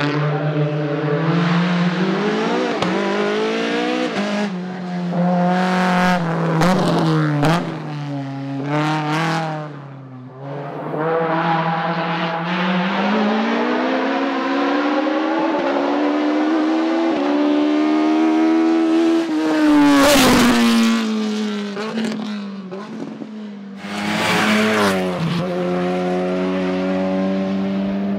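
Hillclimb racing car engines at full throttle, the pitch climbing and dropping again and again through gear changes, with short sharp cracks around several of the shifts.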